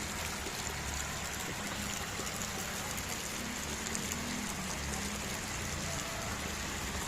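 Steady rushing of water: rain and floodwater from an overflowing river.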